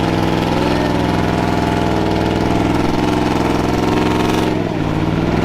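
Truck engine running steady and loud, its pitch dipping briefly near the end and then rising again as it is revved.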